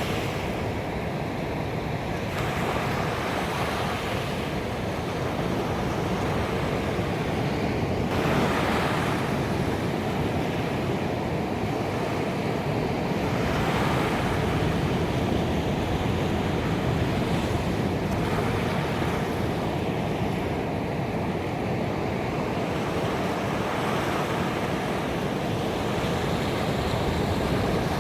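Ocean waves breaking on a beach: a continuous wash of surf, with a fresh wave swelling in about every five seconds.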